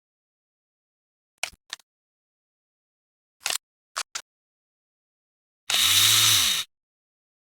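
Several short, sharp metal clicks from parts of a PTRS-41 anti-tank rifle being handled, one of them a quick double click. Near the end comes a loud noisy sound lasting about a second, with a pitch that rises and then falls.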